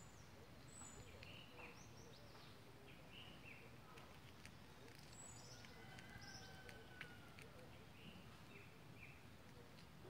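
Faint bird chirps: short, high, falling calls, often in twos or threes, repeated throughout over a low outdoor hiss.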